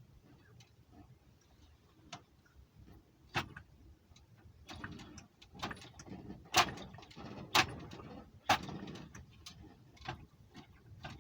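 Tiny M12B four-stroke gasoline model engine being spun over by hand, not yet starting: scattered light clicks, then a few seconds of irregular knocking with three sharp pops about a second apart in the middle.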